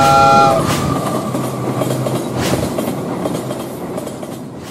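Train sound effect: a horn chord that stops about half a second in, then the rumble and wheel clatter of a passing train, fading out at the end.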